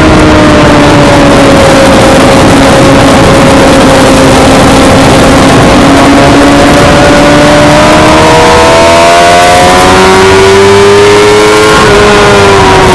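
Suzuki GSX-R600 inline-four racing engine running hard at high revs on track, over steady wind rush. The pitch eases slightly and holds, then climbs from about eight seconds in as the bike accelerates, and falls away just at the end.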